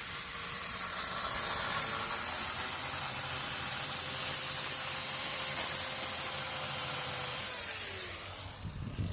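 Power cutting tool running steadily as it cuts through a steel front coil spring of a Chevy S10, a hiss with a steady whine. Near the end it is released and winds down, its pitch falling.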